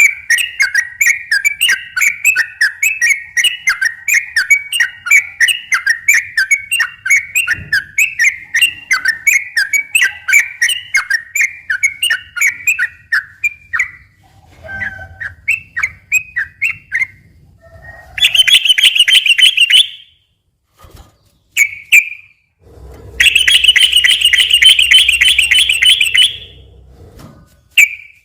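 Yellow-vented bulbul singing in full voice. For about the first half it gives a fast run of repeated chirping notes, about three a second. Then come sparser notes and two long, buzzy, trilling rattles of about two and three seconds.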